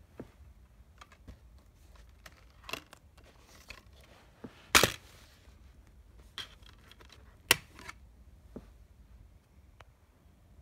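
Handling noise: scattered sharp clicks and knocks over a low background. The loudest comes about five seconds in and another about two and a half seconds later.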